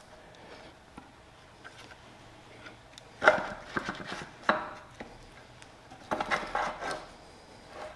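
Metal bracket and stainless steel washers clinking and knocking as they are fitted by hand onto an outboard motor mount. The knocks come in two short clusters, a few seconds apart, with scattered lighter clicks between them.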